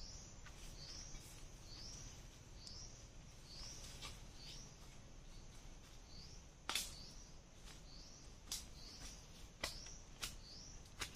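A bird repeating a short rising chirp, a little more often than once a second. From about halfway on come a few sharp snaps of footsteps through dry leaves and twigs in the undergrowth.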